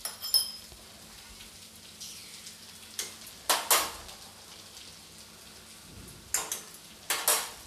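Vegetable stuffing frying with a faint steady sizzle in a kadhai. A steel slotted spoon scrapes and knocks against the pan several times, mostly in quick pairs.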